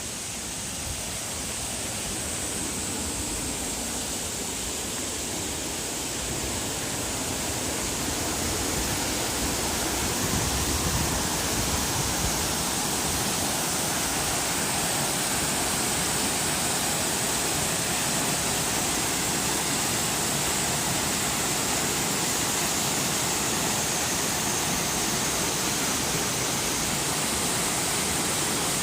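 Waterfall, a steady rushing of falling water that grows louder over the first ten seconds or so and then holds even.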